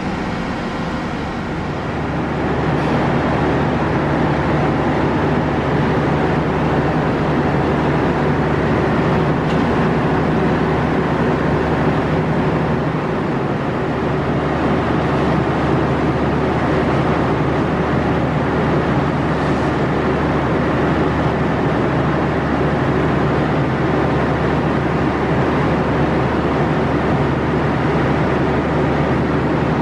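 Steady low hum and rumble of a passenger train heard from inside the coach, a little louder from about two seconds in.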